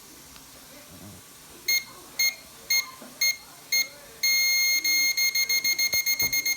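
Microwave oven's electronic beeper going off on its own, a sign that the microwave is malfunctioning. It gives five short high beeps about half a second apart, then a long steady beep that breaks into rapid beeping, many a second.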